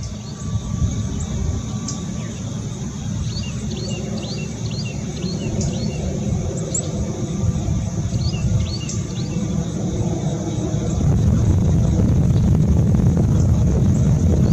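Small birds chirping in many short, quick calls over a loud, steady low rumble that grows louder about eleven seconds in.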